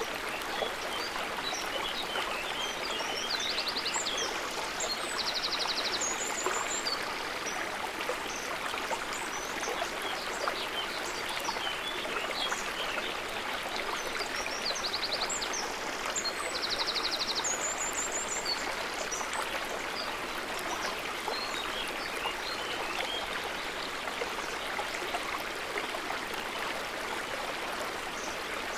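Stream water running and burbling steadily. High chirps and short fast trills come in two clusters, a few seconds in and again about halfway through.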